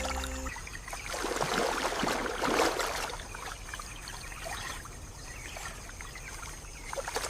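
River water splashing and rushing, swelling in surges and easing between them.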